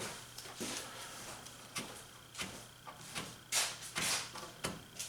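Scattered light knocks and a few short scraping strokes of hand tools being handled, over a faint steady hum.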